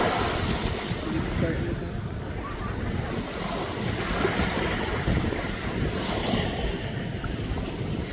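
Wind buffeting the microphone over the rushing of sea waves: a steady, rough noise, heaviest in the low end.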